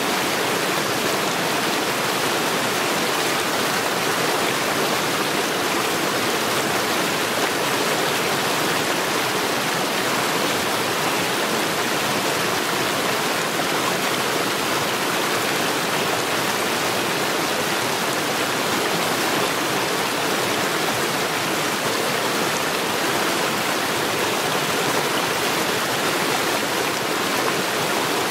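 Mountain stream rushing steadily over stones, a constant, even water noise with no change.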